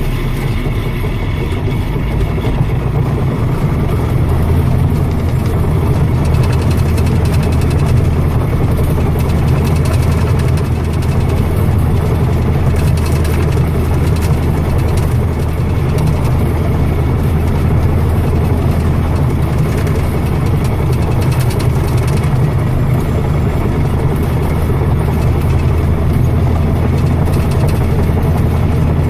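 Heavy machinery engine running steadily with a low-pitched drone. Its speed rises a little a few seconds in, then holds.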